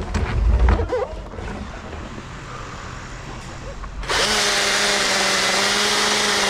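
Battery-powered chainsaw starting up suddenly about four seconds in and running at a steady high speed with an even whine. Low rumbling and knocks come before it.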